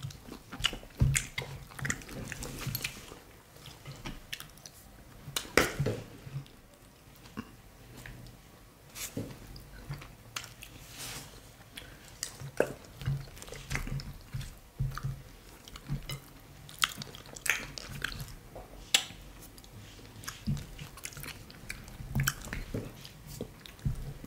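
Close-miked eating of fufu and banga soup by hand: wet chewing, lip smacks and sticky mouth clicks coming irregularly, several times a second.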